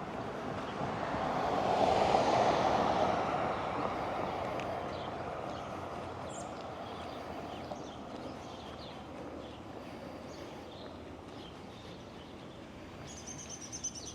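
A car passing on a residential street: a rushing tyre-and-engine noise that swells about two seconds in, then slowly fades away. Scattered bird chirps go on throughout, with a short, high bird call near the end.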